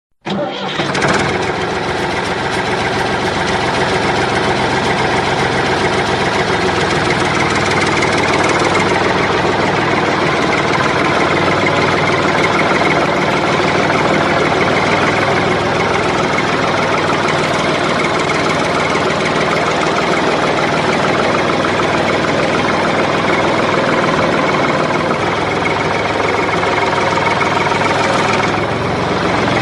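Tractor engine running steadily at a constant speed, starting abruptly and holding one even, knocking drone throughout.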